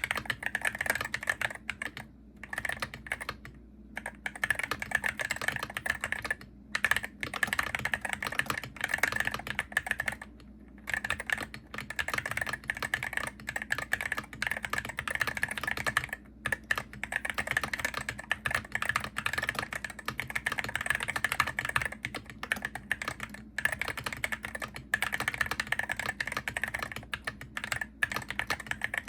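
Typing on a Hero68HE gaming keyboard: a dense, fast run of key clicks, broken by a few short pauses.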